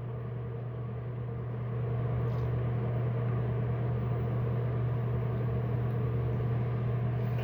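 A steady low electrical-sounding hum over faint hiss, growing slightly louder about two seconds in.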